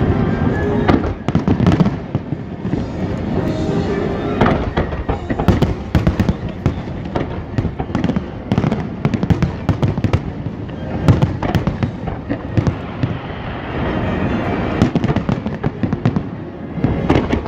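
Large fireworks display: shells bursting in quick, dense succession, bangs overlapping with crackling.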